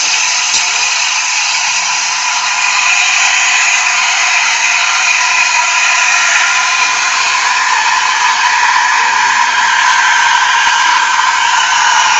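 Izzo Alex Duetto II dual-boiler espresso machine's steam wand steaming milk in a pitcher: a loud, steady hiss of steam, with a whistling tone that grows stronger partway through.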